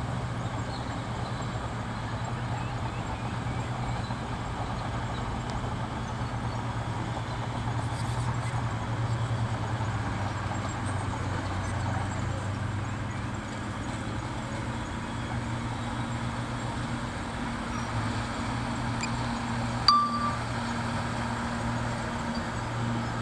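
Bulldozer's diesel engine running steadily at a low, even drone, with one sharp metallic clink near the end.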